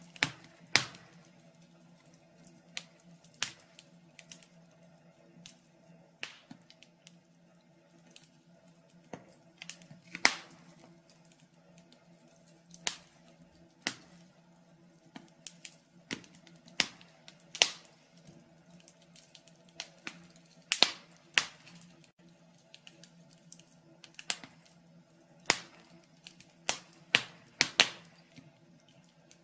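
Wood fire crackling in a fireplace: irregular sharp pops and snaps, roughly one or two a second, over a faint steady low hum.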